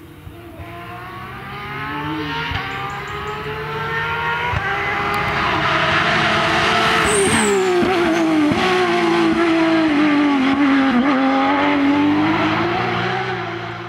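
Porsche 911 flat-six rally car at racing speed, growing louder as it approaches over the first several seconds. About seven seconds in the engine pitch drops sharply through downshifts under braking, and it then stays loud and steady.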